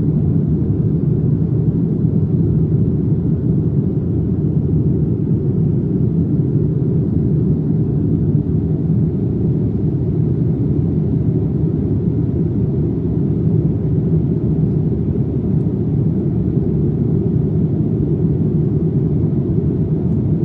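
Steady low rumble of an airplane heard from inside the passenger cabin: engine and air noise, even throughout with no changes.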